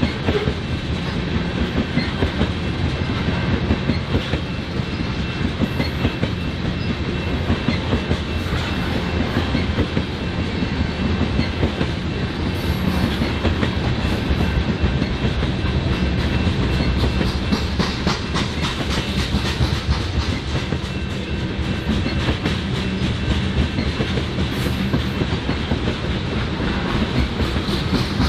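BNSF freight train cars rolling past at steady speed, with a continuous clickety-clack of wheels over the rails.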